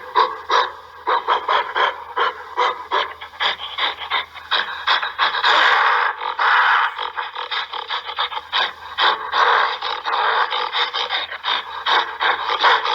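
Gorilla panting in quick, rasping breaths, several a second, broken by longer harsh stretches about five seconds in and again near ten seconds.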